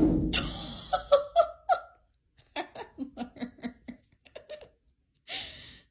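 A person laughing in short repeated bursts, about four a second, in two runs, after the fading tail of a loud thump at the very start.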